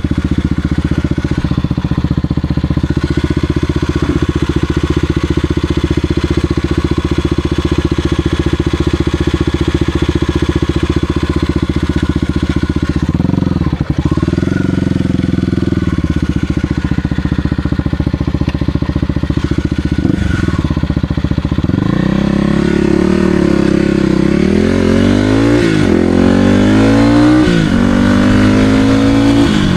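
Kawasaki KLX300R dirt bike's single-cylinder engine running at steady throttle, with a brief drop in revs about halfway through. From about two-thirds in, the revs rise and fall repeatedly as the bike accelerates and changes gear.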